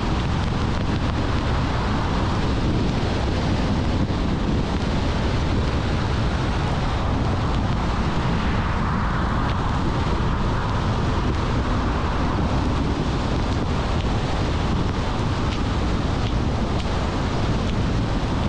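Steady road noise of a car driving: constant tyre and wind noise with a low rumble.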